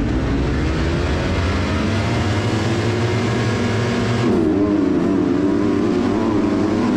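Motocross bike engine running hard, its note rising as it revs; about four seconds in the hiss above drops away and the pitch dips and swings up and down with the throttle.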